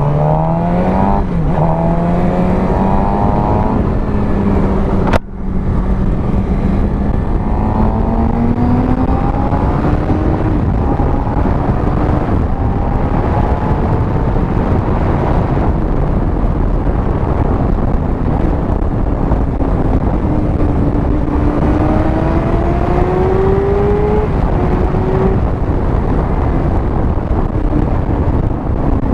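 Sport motorcycle with an aftermarket exhaust under way, heard from on the bike with a steady rush of wind. The engine note climbs at the start, rises slowly again at times, and breaks off sharply for an instant about five seconds in.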